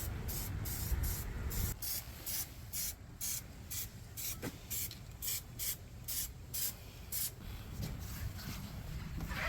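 Short hissing bursts of compressed air, about two a second, stopping about seven and a half seconds in. A low rumble underlies the first two seconds.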